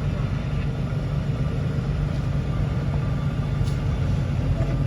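Semi truck cruising on the highway, heard from the cab: a steady low drone of engine and road noise.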